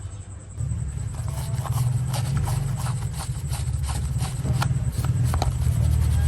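A small motor starts about half a second in and runs with a steady low hum, while irregular clicks and taps sound over it.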